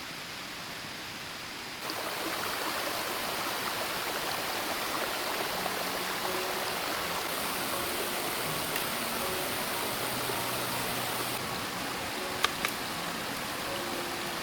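Steady rush of running water, stepping up in level about two seconds in, with two sharp ticks near the end.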